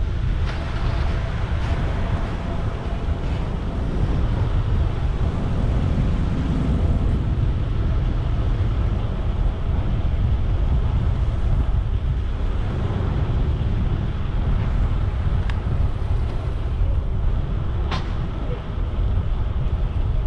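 Wind buffeting the microphone of a camera on a moving bicycle, a steady low rumble, over city street traffic, with a sharp click about eighteen seconds in.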